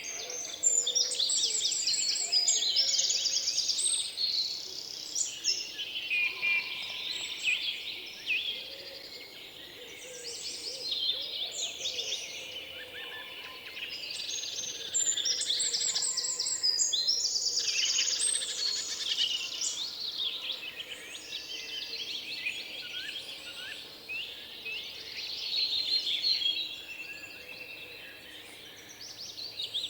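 Several songbirds chirping and singing at once: a dense chorus of rapid high twitters and trills, swelling louder near the start, around the middle and near the end.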